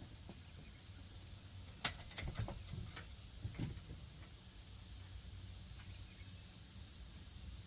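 A few light clinks and knocks of hand tools, sockets and a wrench being handled, with one sharp click about two seconds in, over a faint steady hum.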